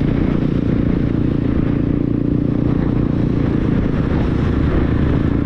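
Motorcycle riding along at a steady speed, its engine and road noise making a loud, unbroken drone.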